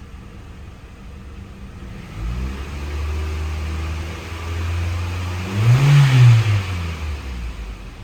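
2011 Mitsubishi Outlander Sport's 2.0 L four-cylinder engine starting about two seconds in and idling steadily. It is revved once, up and back down, then switched off near the end.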